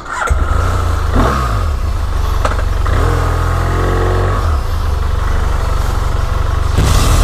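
Motorcycle engine that comes in suddenly just after the start and runs loudly, revving up and back down around the middle.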